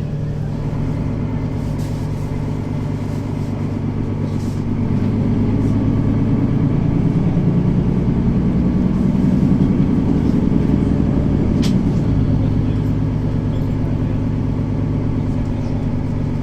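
Mercedes-Benz Citaro facelift city bus engine running as the bus drives. The engine grows louder from about four seconds in, then drops back about twelve seconds in, with a single click just before.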